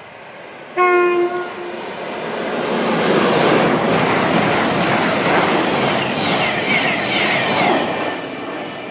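CrossCountry Class 220 Voyager diesel-electric multiple unit sounding one short horn blast about a second in, then passing at speed with a loud rush of wheel and engine noise that eases off near the end.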